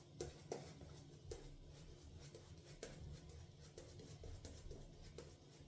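Faint, soft strokes of a synthetic-knot shaving brush painting soap paste onto the face, with small clicks here and there.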